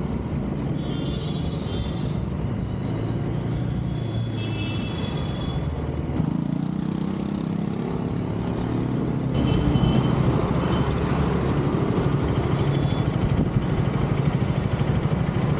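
KTM Duke 250 Gen 3's single-cylinder engine running while the motorcycle is ridden. The engine note shifts about six seconds in and again near ten seconds.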